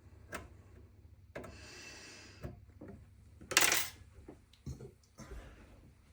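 Small metal parts clinking and rattling amid handling noises, with a scraping rustle and then one loud metallic clatter about three and a half seconds in.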